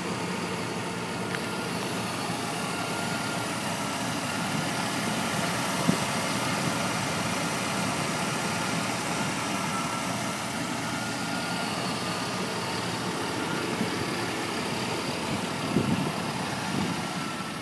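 1991 Chevy Silverado's 4.3-litre V6 engine idling steadily.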